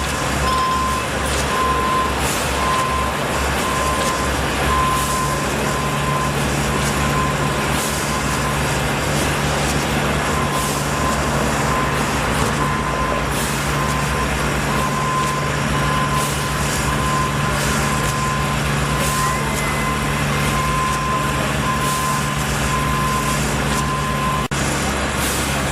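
Backup alarm of a heavy construction vehicle beeping about twice a second over its running diesel engine. The beeping pauses briefly midway and stops near the end.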